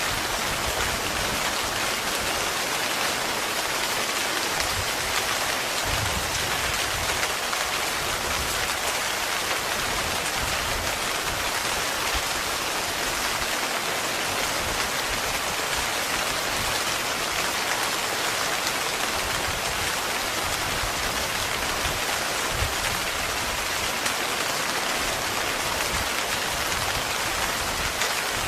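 Heavy rain falling steadily on a tent, a dense, unbroken patter of drops.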